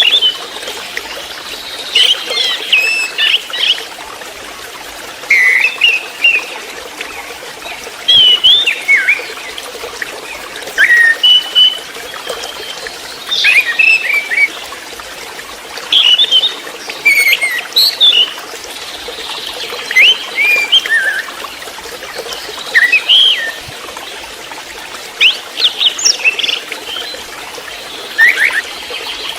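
Juvenile orange-headed thrush (anis merah trotol) singing in short, quickly varied phrases every second or two, over a steady background of trickling water.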